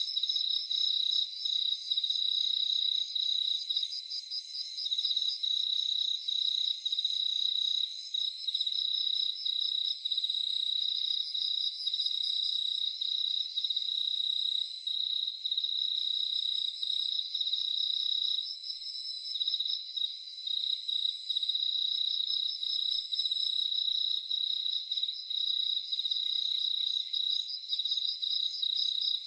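Several crickets chirping together in a dense, continuous high-pitched chorus: one steady trill with fast pulsing trills layered above it. There is no low sound at all under the insects.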